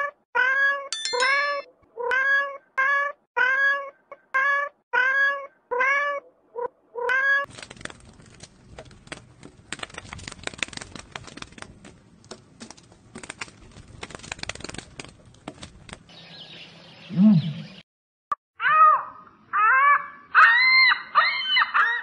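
A domestic cat meowing in a rapid series of short meows, about two a second, for the first seven seconds. Then comes several seconds of steady crackling, rustling noise, and near the end a run of loud pitched animal calls.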